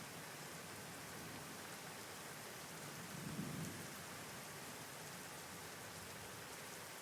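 Steady rain falling, with a short, low rumble of distant thunder about three seconds in.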